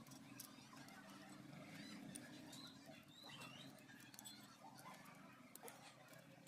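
Near silence: a faint low hum with a few faint, distant bird chirps and small scattered ticks.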